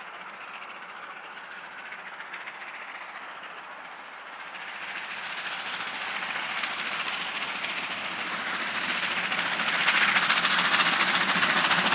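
Passenger train approaching, its noise growing steadily louder and brighter from about four seconds in.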